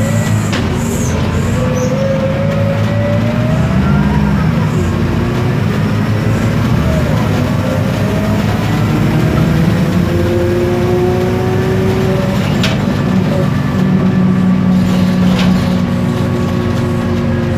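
Isobus City 1200 city bus under way, heard from inside: steady drone of its MAN D0836 diesel with the whine of the ZF Ecomat automatic gearbox and differential rising slowly in pitch as it gathers speed and dropping back at gear changes. A few sharp knocks or rattles cut in, one at the start and two near the end.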